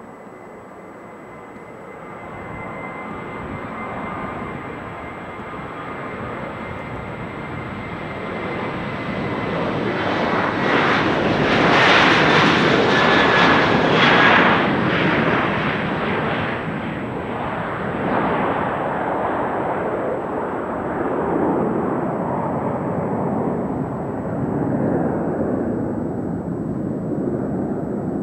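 Boeing 737-800's CFM56-7B jet engines at takeoff power, growing steadily louder with a thin fan whine, loudest about twelve seconds in as the airliner passes. It then settles into a deep, continuing rumble as it moves away.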